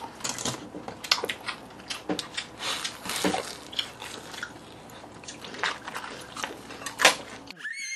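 Crunchy bites and chewing of a fried pork tenderloin cutlet (ahnsim donkatsu), with scattered short crisp crunches.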